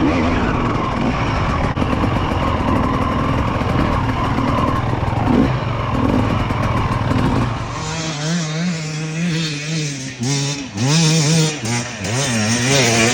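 Dirt bike engine running under throttle with heavy rushing noise. From about eight seconds in, the revs rise and fall over and over.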